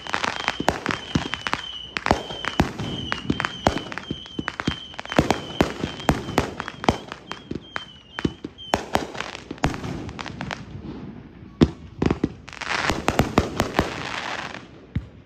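Consumer fireworks cakes firing in a rapid run of sharp bangs. A steady, wavering high tone runs under the bangs through the first half and stops about nine seconds in, and near the end there is a dense stretch of hissing crackle.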